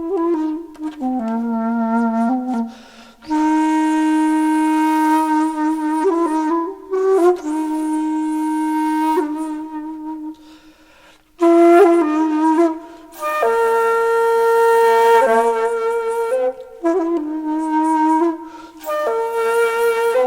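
Background music: a flute-like wind instrument playing a slow melody of long held notes, with short breaks about three seconds in and near the middle.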